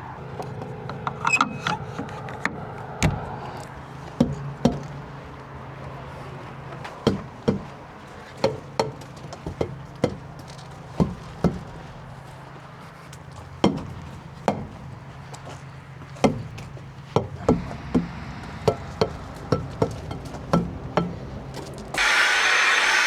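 A string of sharp knocks and clicks, unevenly spaced at about one or two a second, over a steady low hum. About a second before the end, a loud steady rushing noise cuts in suddenly.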